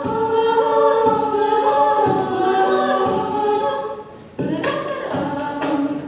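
A cappella group singing sustained, layered chords. About four seconds in the voices drop away for a moment, then come back in over vocal percussion ticking out a quick hi-hat beat, about four ticks a second.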